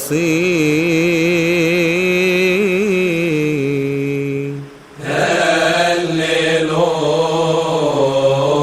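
A man chanting a prayer in Arabic, holding the last word of the psalm in a long ornamented line with vibrato. After a brief break about four and a half seconds in, a fuller chanted passage begins.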